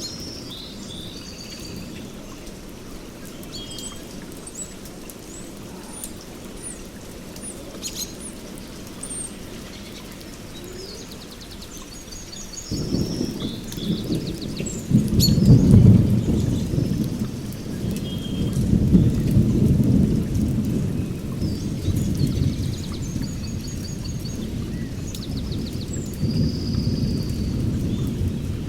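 Songbirds chirping and calling, with a long rolling rumble of thunder that starts about halfway through, peaks a few seconds later and keeps rolling under the birds.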